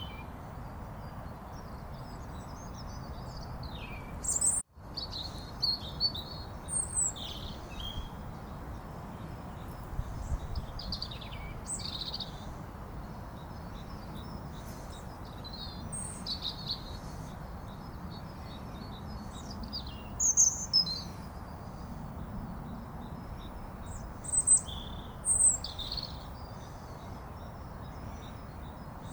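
Small birds chirping and calling, many short calls scattered throughout, over a steady low background noise. The sound drops out for an instant just before five seconds in.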